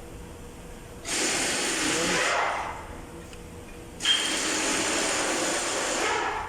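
Two hissing sprays of oil onto the piston and its ring slots, the first about a second and a half long, the second about two seconds long starting about four seconds in.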